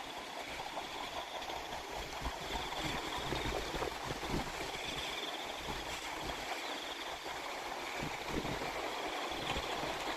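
Water running and gurgling through a rice-field channel, with gusts of wind rumbling on the microphone. A faint high trill comes and goes behind it.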